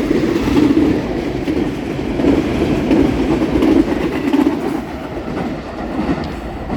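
A train rolling past, its wheels running on the rails in a steady loud rumble with occasional clicks.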